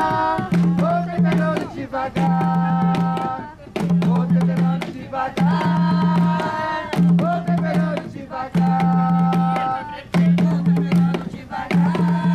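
Jongo song: voices singing short repeated phrases over hand-struck jongo drums, the drum strokes sharp and rapid. A short, low, held note comes in about every second and a half.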